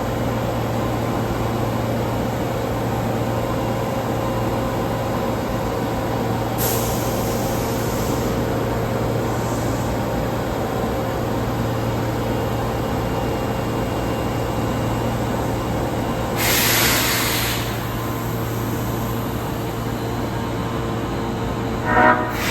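Subway train car with its onboard equipment humming steadily, no wheel clatter; pneumatic air hisses twice, briefly about seven seconds in and louder for about a second some sixteen seconds in, and a short clattering knock comes near the end.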